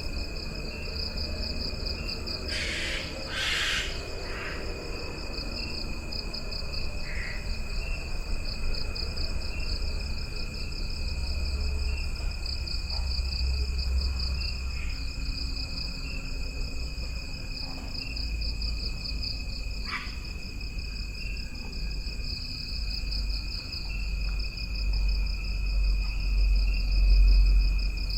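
Jungle insects trilling steadily in two high pitches, the lower one pulsing in regular chirps, with a couple of short bird calls about three seconds in and a few single calls later. A low rumble swells toward the end.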